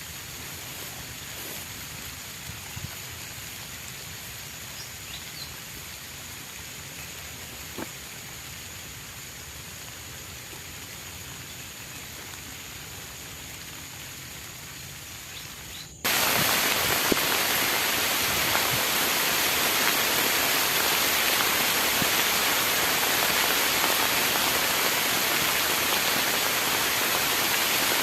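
Rain falling steadily, with scattered individual drops ticking close by. About halfway through it switches abruptly to a much louder, dense downpour.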